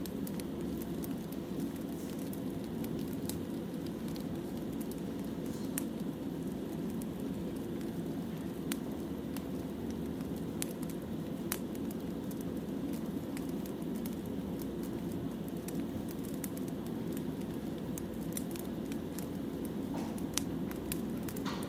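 Wood fire crackling: a steady low rush of burning logs with scattered sharp pops.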